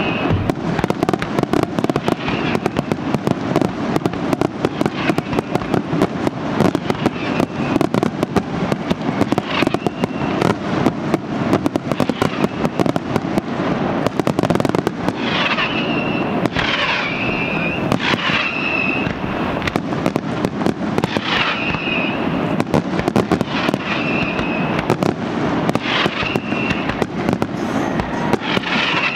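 Aerial fireworks bursting in a dense, continuous barrage of rapid crackles and bangs. Short high whistles cut through several times in the second half.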